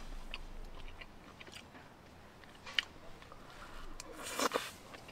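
A person chewing a mouthful of spicy squid and pork belly stir-fry, close to the microphone, with soft wet mouth clicks. There is a sharp click near the middle and a louder short crunch near the end.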